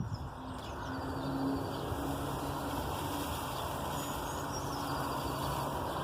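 Bamboo leaves and stems rustling in a strong wind, a steady hiss, with a faint steady hum under it and a few faint bird chirps.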